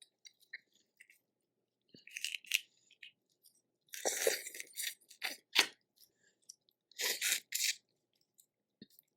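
Close-up eating of boiled crawfish: shells cracked and peeled in short crunchy bursts, with chewing between them.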